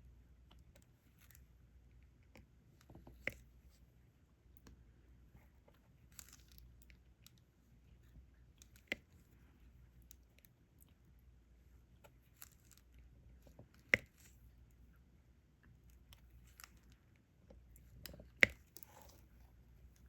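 Diamond painting drill pen picking up and pressing small resin drills onto the canvas: faint scattered ticks and rustles, with a few sharper, louder clicks spread out.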